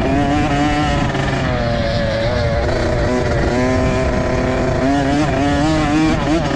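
Motocross dirt bike engines revving hard, their pitch climbing and dropping again and again with throttle and gear changes; more than one bike is running at once.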